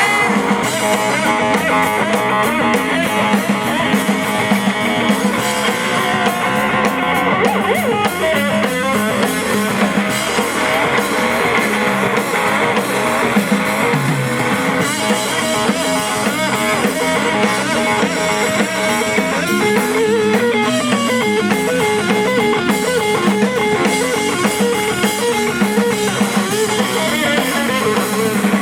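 Live blues-rock band playing an instrumental break, with electric guitar over bass and a drum kit.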